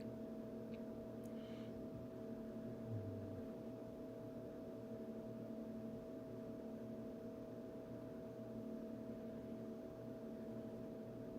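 Quiet room tone: a steady low hum made of a few held tones over a faint hiss, with a faint tick about a second in.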